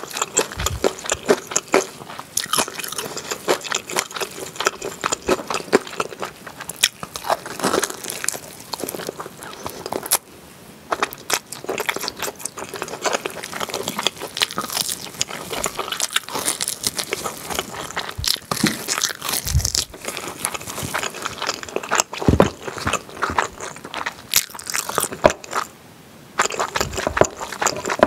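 Close-miked chewing and gnawing of grilled pork back ribs topped with melted cheese: crunchy bites, wet smacking and crackles, pausing briefly twice.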